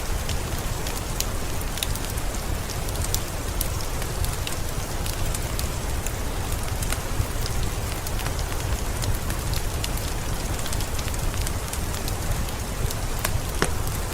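Heavy rain falling in a forest: a steady, even hiss with many sharp individual drop ticks and a low rumble beneath.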